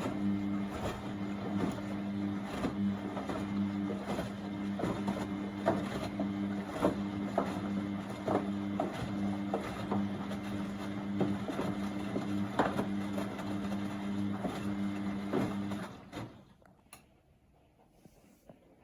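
Beko WMB71642W washing machine tumbling its drum during the heating stage of a 30° cotton wash: a steady motor hum with irregular knocks and sloshing of wet laundry. About sixteen seconds in the drum stops and the machine goes almost silent, broken by one click.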